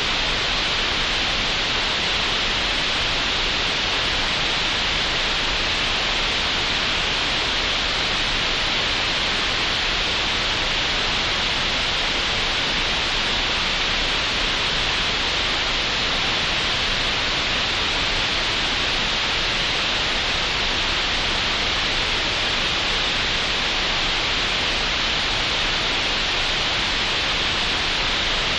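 Green noise generated in Audacity: a steady, even hiss with no variation, strongest in the upper middle of the range and cut off sharply at the top.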